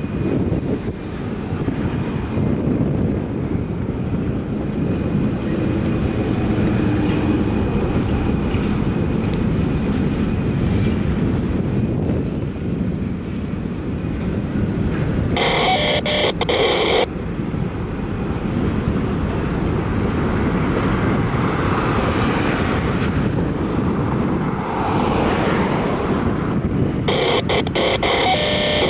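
Freight train of covered hopper cars rolling past: a steady low rumble of wheels on rail, with two brief harsher bursts, one about halfway through and one near the end.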